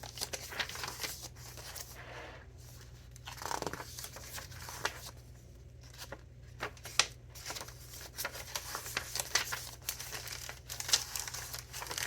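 Pages of a thick handmade paper junk journal being turned and handled: irregular paper rustling and crinkling with scattered sharp flicks and taps.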